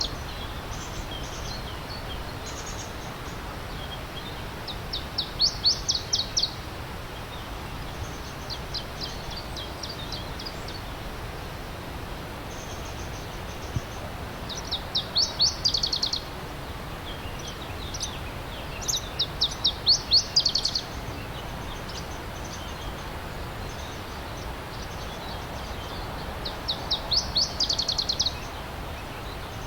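A songbird repeating a short phrase of rapid high notes, about a second and a half long, every few seconds, over the steady rush of a stream.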